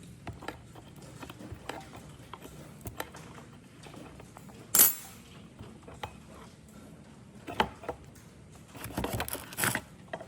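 Small metal parts or tools handled on a workbench: scattered light clicks and knocks, one sharp clink about five seconds in, and a short burst of rattling near the end.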